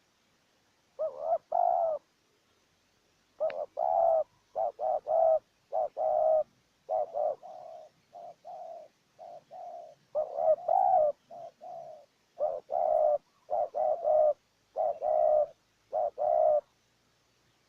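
Spotted dove cooing: a run of short, low coos in repeated phrases, with brief pauses between them.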